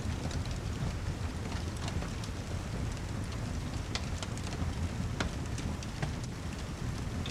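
Steady heavy rain with scattered sharp ticks of drops over a low, even rumble.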